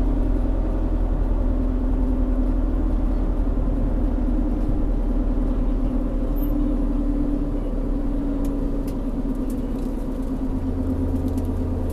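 Car engine and road noise heard inside the cabin while driving: a steady low hum with a slightly wavering engine tone.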